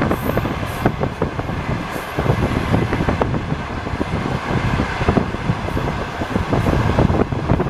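Passenger train carriage running along the track, heard from inside the car: a steady rumble of wheels on rails with many irregular knocks and rattles.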